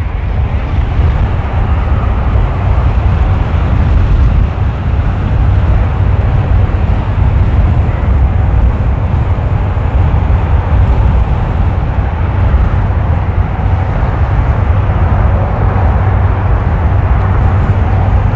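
Strong wind buffeting the microphone: a loud, steady low rumble with no break.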